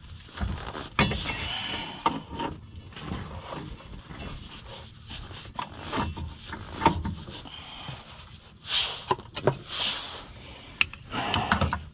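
Irregular metal knocks and clunks as a Scion FR-S axle is turned and struck to pop its inner end out of the differential, with a couple of short scrapes near the end.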